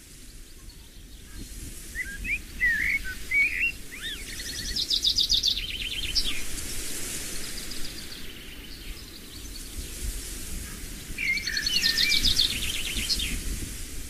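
A songbird sings the same phrase twice, about eight seconds apart: a few quick twittering notes followed by a fast trill of repeated high notes. A steady low rumble of outdoor ambience runs underneath.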